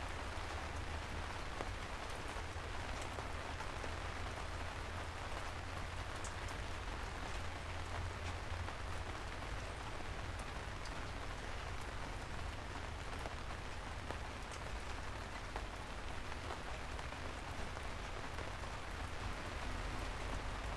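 Steady rain falling, an even hiss of drops hitting a surface with a low rumble beneath and scattered individual drop ticks.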